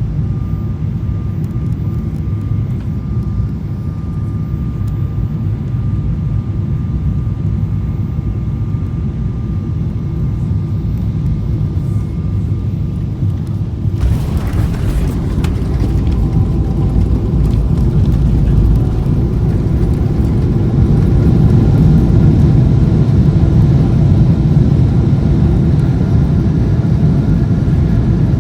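Airliner landing: a steady low jet rumble with faint steady tones. About halfway through the sound changes suddenly to a fuller hiss with new tones, and the rumble grows louder after that.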